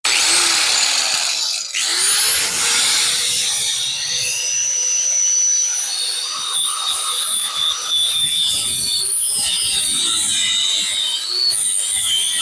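Handheld power tool running continuously with a high-pitched motor whine; the whine dips and spins back up about two seconds in.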